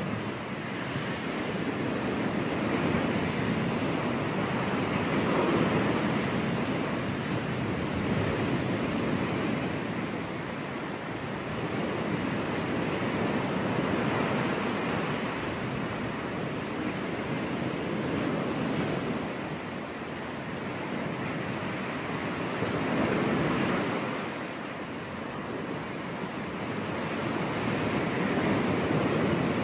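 Ocean surf: waves breaking and washing up a beach in a continuous rush that swells and eases every few seconds.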